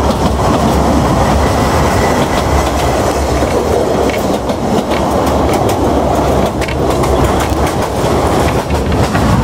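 Ffestiniog Railway narrow-gauge carriage rolling along the line, heard from inside at the window: a steady loud rumble of wheels on rail, with scattered clicks from the track.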